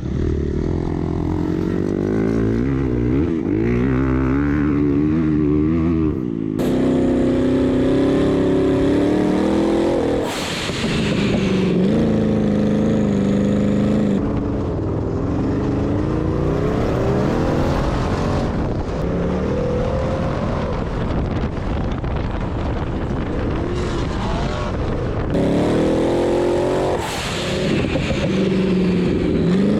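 Off-road vehicle engine revving up and down as it is ridden hard. The pitch rises and falls repeatedly, and the sound changes abruptly several times where clips are spliced together.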